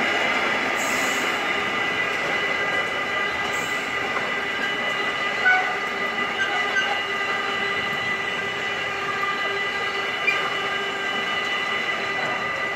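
Container flat wagons of an electric-hauled freight train rolling past: a steady rumble of wheels on rail with high, steady squealing tones held over it, and a couple of short sharp squeaks about five and ten seconds in.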